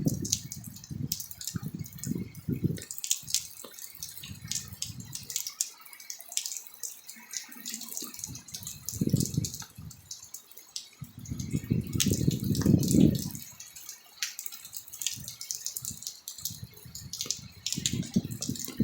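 Heavy rain: water dripping and splashing in quick, irregular ticks. Bursts of low rumble come and go, the loudest about two-thirds of the way through.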